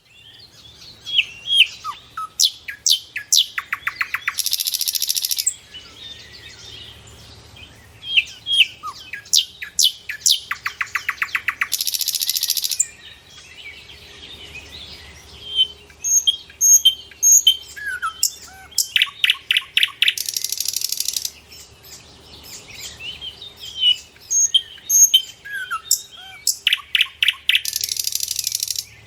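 Birdsong: a phrase of sharp chirps, a fast trill and a buzzy note about a second long, recurring about every eight seconds, four times over.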